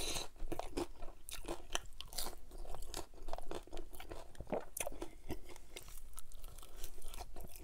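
Close-miked chewing of a crunchy hard corn taco shell: many short, sharp crunches in an irregular run.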